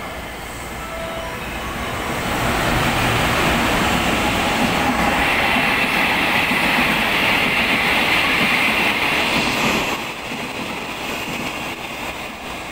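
Freight train of empty container flatcars behind an EF210-type electric locomotive rolling past, its wheels rumbling on the rails and swelling louder about two seconds in. From about five to ten seconds in a high steady screech of wheels on the curve rides over the rumble, then the sound drops back as the last wagons pass.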